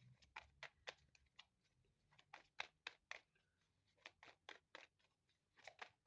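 Faint, irregular clicks and ticks, a dozen or more in quick scattered groups, like small objects being handled.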